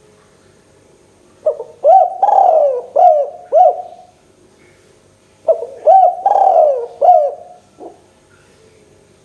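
Spotted dove cooing: two phrases of about five coos each, the second beginning about four seconds after the first.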